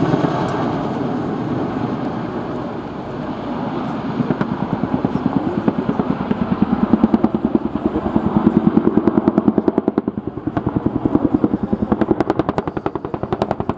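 RAF Boeing Chinook HC.2 tandem-rotor helicopter flying past, with a fast, even beat of rotor blade slap over the engine noise. The beat grows stronger a few seconds in, is loudest past the middle, and dips briefly before coming back.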